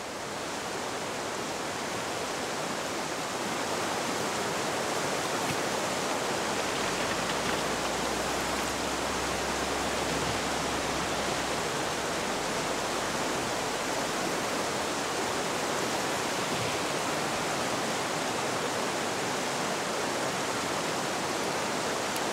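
A mountain stream in flood after days of heavy rain, its fast, muddy water rushing and churning over its banks in a steady, dense rush. A deeper low rumble joins it for several seconds in the middle.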